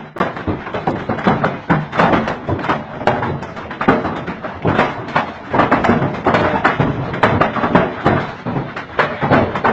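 Hailstones pelting down: a dense, irregular clatter of many hard impacts.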